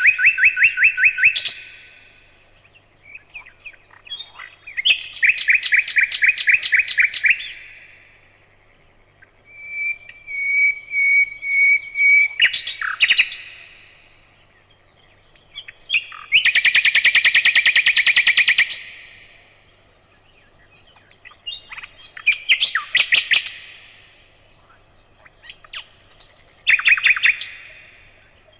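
A nightingale singing: loud phrases of rapid repeated notes and trills, with pauses of about two seconds between them. One phrase opens with a steady whistle before breaking into a run of notes.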